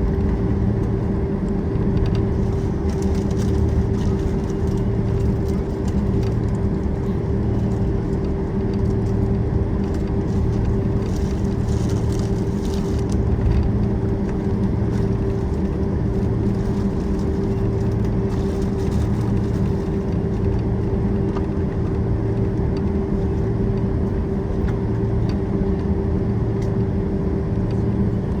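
Cabin noise of a Boeing 767-400ER taxiing on the ground, its twin jet engines at idle: a steady hum with a constant mid-pitched tone and a low drone that throbs slowly, about once a second.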